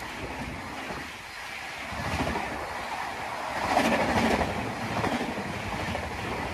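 Passenger coaches of an Indian Railways express running through a station at speed: wheels clattering over the rail joints under a steady rush of air, loudest about four seconds in.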